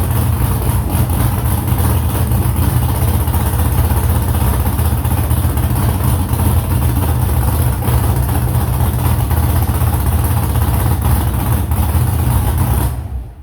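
Freshly built hot rod engine running on one of its first starts, loud and steady with a deep exhaust rumble; the sound stops abruptly near the end.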